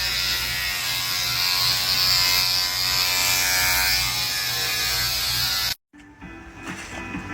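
A steady, loud electric buzz with hiss, like a small motor running, that cuts off abruptly about six seconds in. Quieter music follows it.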